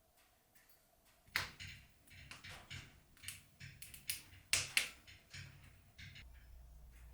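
Irregular sharp clicks and light knocks, a dozen or so spread over a few seconds, the loudest a close pair near the middle, starting after a brief hush.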